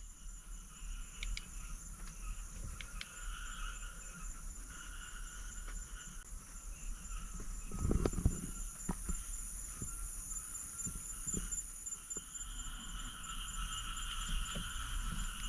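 Insects trilling steadily in several overlapping high-pitched chirrs, one of them rapidly pulsing, with a few low thumps about halfway through.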